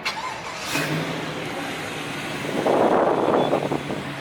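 A car engine running steadily, with a louder rush of engine and exhaust noise about two and a half seconds in that lasts about a second.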